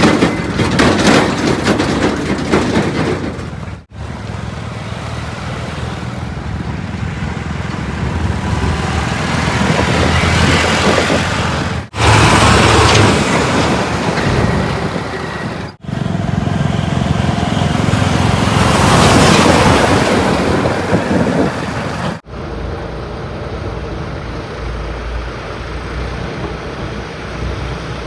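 Heavy diesel machinery and trucks running, heard across several short clips cut together; in some clips the engine noise swells up and then fades.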